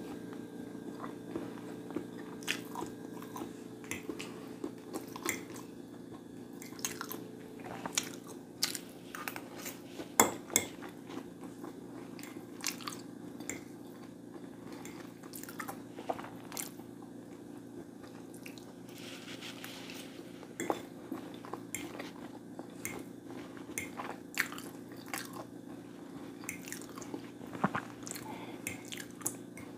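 Close-miked eating: chewing with irregular crunchy bites and wet mouth clicks, over a steady low hum.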